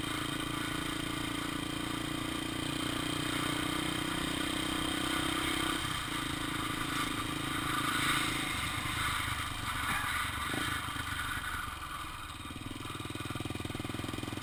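Honda XR 250 Tornado's single-cylinder engine running steadily while the motorcycle is ridden, its note changing about six seconds in and dropping lower a couple of seconds later.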